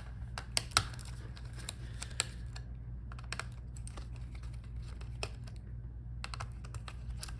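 Small irregular clicks and ticks of a screwdriver working the screws that hold a laptop's heatsink over the CPU and GPU, with a steady low hum underneath.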